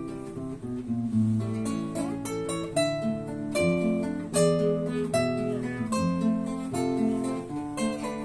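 Two classical guitars playing a duet: a plucked melody over a bass line of sustained low notes.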